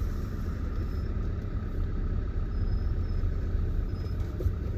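Car engine running at low speed, heard from inside the cabin as a steady low rumble.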